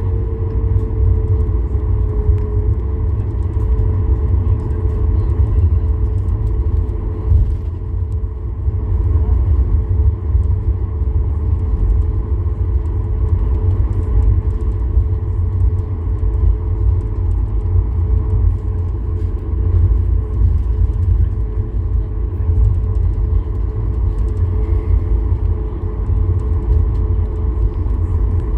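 Cabin noise of a Boeing 737 MAX 8-200 at low power on the ground: a steady low rumble under a steady hum that dips slightly in pitch about two seconds in.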